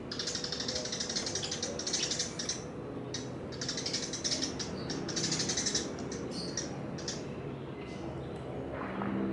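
Small birds chirping in a run of rapid, high-pitched chattering bursts, one after another.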